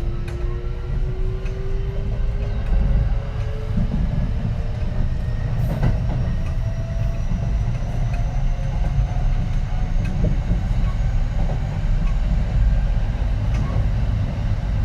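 Kintetsu 3220 series train's Hitachi IGBT VVVF inverter and traction motors whining, the pitch rising slowly and steadily as the train gathers speed. Underneath is a steady low rumble of the wheels on the rails, with a few short clicks.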